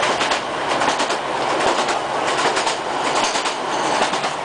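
ScotRail Class 156 Sprinter diesel multiple unit running at speed: a steady rush of wheels on rail, broken by irregular sharp clicks as the wheels cross rail joints.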